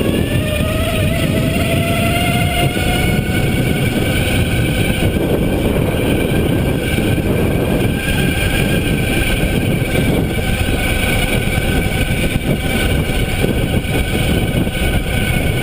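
Electric bike motor whining under load on a steep climb, its pitch rising over the first few seconds and then holding steady, over heavy wind and rolling noise.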